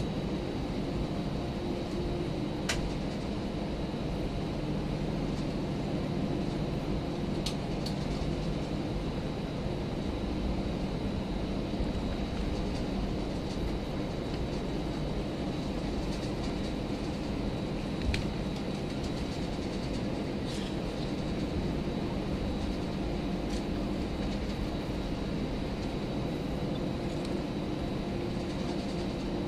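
Steady cabin noise of an Airbus A319 from the front seat, with the engines running evenly and a steady hum. A few light clicks or rattles come through now and then.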